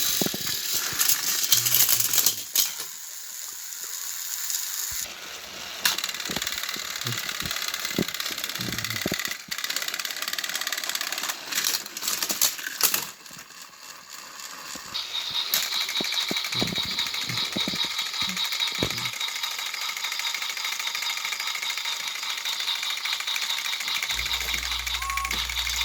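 Motorized toy train engines whirring and rattling, with scattered clicks and knocks. A steady high whine comes in about halfway through.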